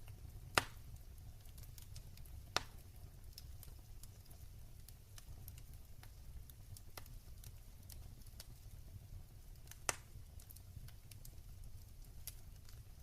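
Wood fire burning in a fireplace, with scattered small crackles over a low steady rumble of the flames; three sharper pops stand out, about half a second in, about two and a half seconds in, and near the ten-second mark.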